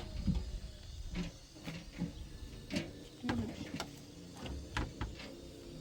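A scatter of light clicks and knocks, irregularly spaced, about ten over several seconds, over a low background rumble.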